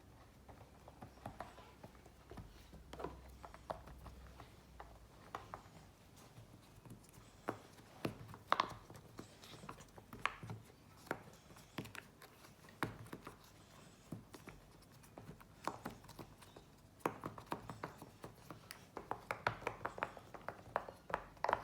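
Silicone pop-it fidget toy bubbles being pressed in quick succession with the fingers: a stream of soft, irregular pops and clicks that come faster and louder near the end.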